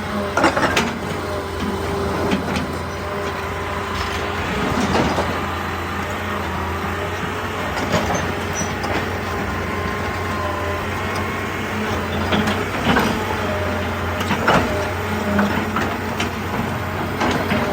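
Excavator diesel engine running steadily with a whine from its hydraulics, and scattered knocks and scrapes of rock every second or few as it works.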